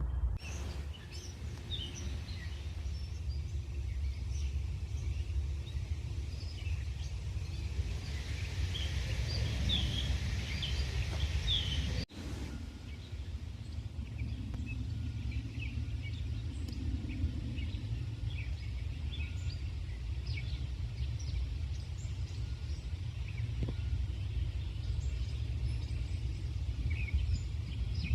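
Outdoor ambience: many short bird chirps scattered throughout over a steady low rumble.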